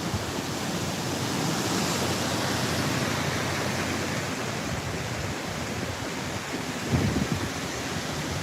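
Strong typhoon wind blowing over the sea with surf, a steady rushing noise. Gusts buffet the microphone with low rumbles about seven seconds in.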